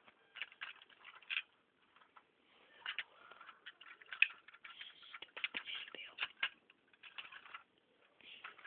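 Lego plastic pieces clicking and rattling as the garbage truck model is handled, a run of irregular small taps that is busiest in the middle.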